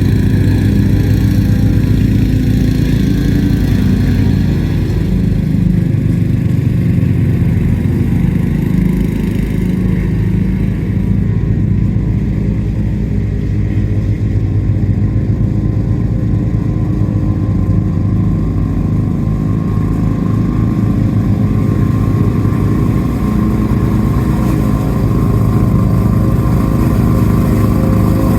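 Lawn-Boy two-stroke push mower engine running steadily while mowing, its note dipping slightly in the middle and brightening again near the end as the load changes.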